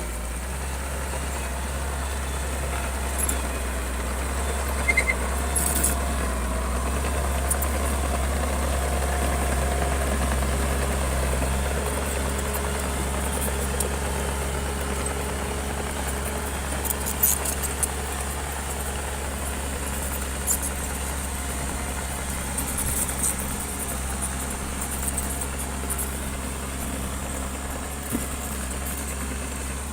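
Heavy diesel engine of a bulldozer running steadily, swelling a little in load about a third of the way in, with scattered short metallic clicks.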